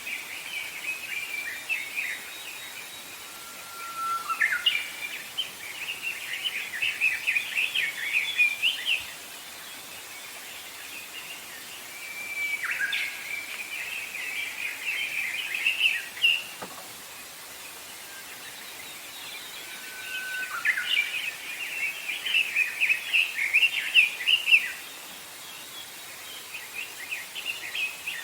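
A songbird singing repeated phrases, each opening with a short steady whistle and running into a rapid, jumbled high twitter lasting a few seconds, with pauses of several seconds between phrases.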